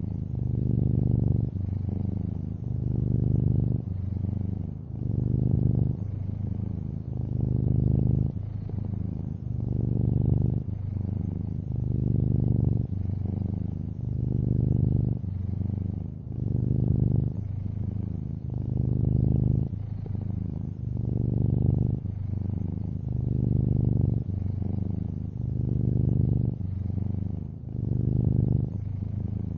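Long-haired orange tabby cat purring close up: a steady low rumble that swells and eases in a regular cycle of about two seconds.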